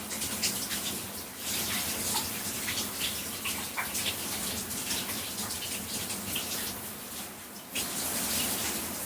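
Shower spray running and splashing onto a person's body, a steady rush of water with an uneven patter. It gets suddenly louder near the end.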